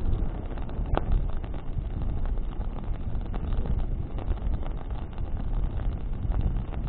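Bonfire burning in the wind: a steady low rumble of wind buffeting the microphone, with the wood crackling in scattered sharp pops, one louder pop about a second in.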